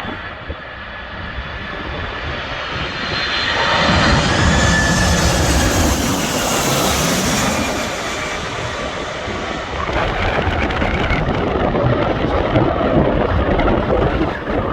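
Boeing 747-400 jet on landing approach, its four turbofan engines whining with several steady tones and a loud hiss that swell to their loudest a few seconds in as it passes close, then ease off. From about ten seconds in a rougher, gusty rumble takes over.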